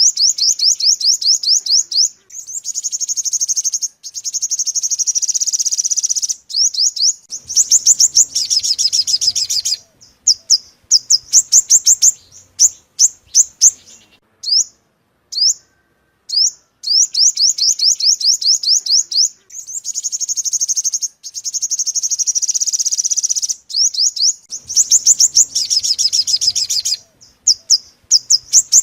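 Yellow-bellied sunbird song used as a lure call: fast series of thin, high chirps alternating with long buzzy trills of several seconds. The same sequence repeats about every 17 seconds, as in a looped recording.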